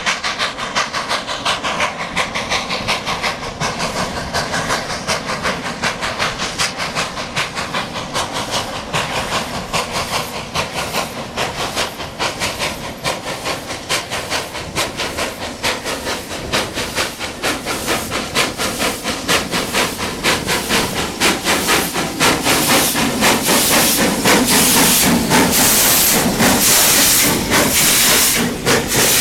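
Steam locomotive chuffing steadily, about two exhaust beats a second with hissing steam, growing louder in the last several seconds as it draws nearer.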